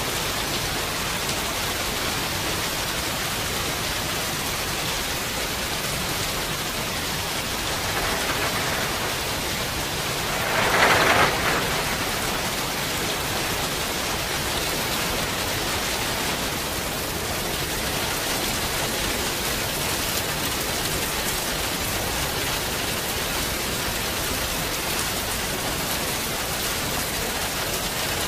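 Steady rain falling, an even hiss of many drops. About ten seconds in there is a brief louder rush lasting a second or so, with a smaller swell just before it.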